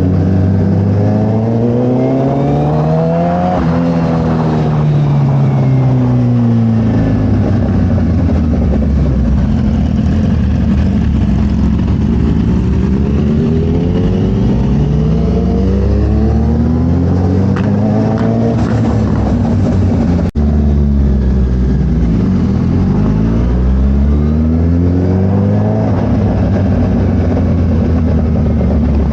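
Suzuki Hayabusa inline-four engine running through a Brock's full exhaust while riding. Its pitch rises and falls several times as the bike accelerates and slows, then settles steady near the end.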